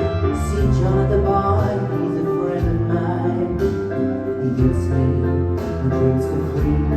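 Live band music led by piano, with singing.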